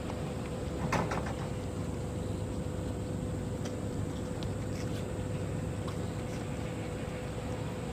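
Steady low engine rumble with a constant hum, a brief sharper sound about a second in.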